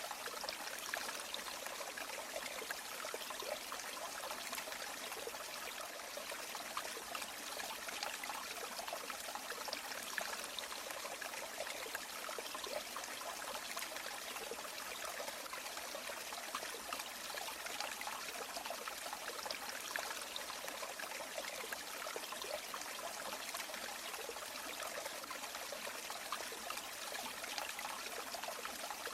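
River water flowing and trickling steadily, a bright burbling rush without pauses.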